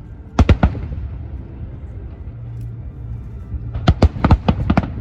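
Fireworks bursting overhead: a quick group of about three sharp bangs half a second in, then a rapid string of about six more near the end, over a steady low rumble of background noise.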